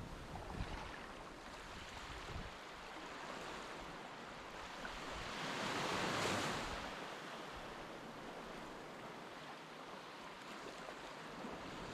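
Sea waves washing onto a beach, swelling once into a louder wash about six seconds in, with wind rumbling on the microphone near the start.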